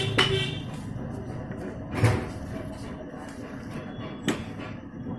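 Two knocks against a low steady workshop background: a sharp one about two seconds in, the loudest sound, and a lighter click about two seconds later, as from parts or tools being handled during engine assembly.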